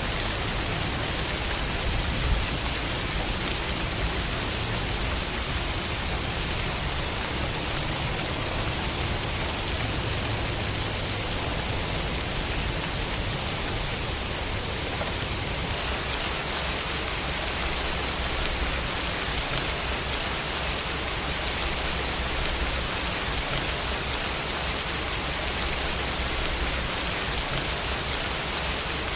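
Steady, continuous rain falling in an even hiss, with a slight change in its texture about halfway through.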